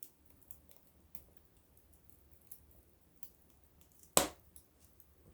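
Small wood fire crackling: scattered sharp ticks and snaps, with one loud pop about four seconds in.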